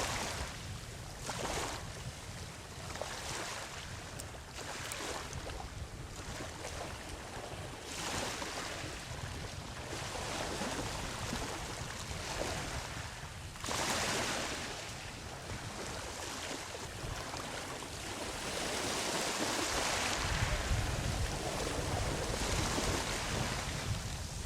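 Ocean waves breaking and washing up a sandy beach, a continuous surf wash rising and falling with each wave, with the biggest break about fourteen seconds in. Wind rumbles on the microphone underneath.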